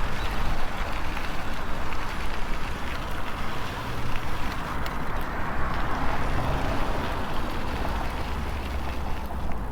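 Riding noise from an electric bicycle in motion: a steady low wind rumble on a foam-covered lapel microphone, over a hiss of rolling tyres, with a few faint clicks.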